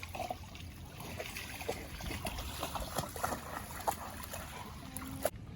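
Light splashing and lapping of shallow water, with scattered small clicks and taps.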